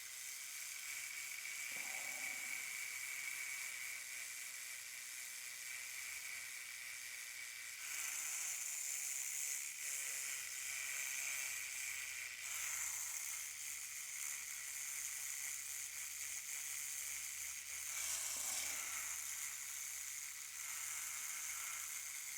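Sandpaper rubbing over hardened steel putty on a plastic slot car body, a continuous scratchy hiss that grows louder for a few seconds around a third of the way in and again near the end.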